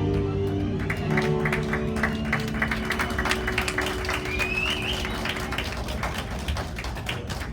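Audience clapping as the held final notes of a sung song die away, with one short rising call about four seconds in.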